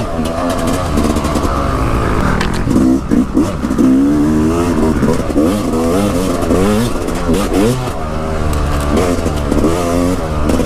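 Dirt bike engine being ridden hard on a trail, its pitch rising and falling again and again as the rider works the throttle and shifts gears.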